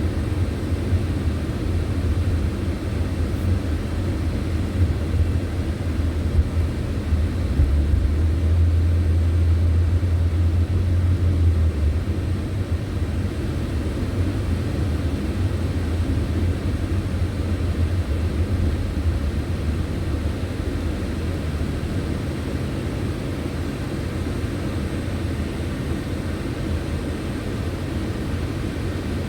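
A car driving on the road: a steady low rumble of road and engine noise that swells a little about eight seconds in and eases after about twelve seconds.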